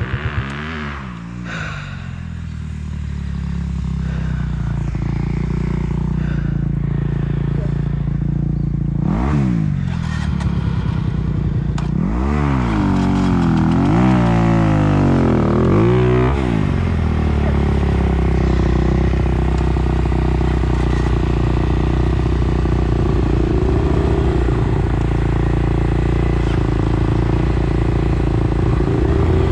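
Dirt bike engine running under the rider, revving up and dropping back about five times in quick succession, then holding a steady pitch.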